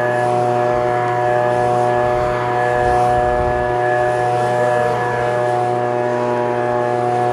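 Echo PB-2620 handheld leaf blower's two-stroke engine running steadily at a constant high speed.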